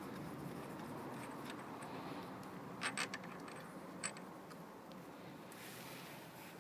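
Hand tools clinking as they are handled: three quick metallic clicks about three seconds in and one more a second later, over a steady low background hum.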